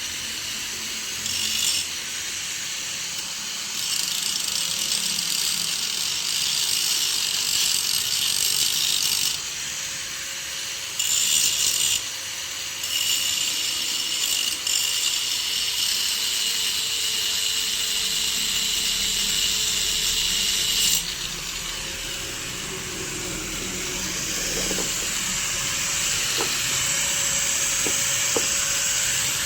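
Angle grinder running with a steady motor whine, its disc biting into the machine's metal in stretches of a few seconds, with a harsh grinding hiss that rises and falls as it is pressed on and eased off. A few light clicks come near the end.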